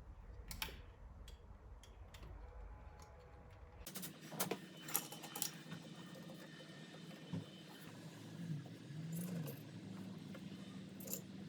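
Scattered light metallic clicks and clinks of small tools and sewing-machine parts being handled, several in quick succession about four to five seconds in, over a low steady hum.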